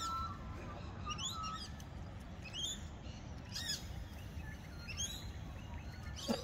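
Birds calling: short sweeping chirps about once a second, with a held warbling whistle in the first second and a half, over a low steady background rumble. A single sharp click comes near the end.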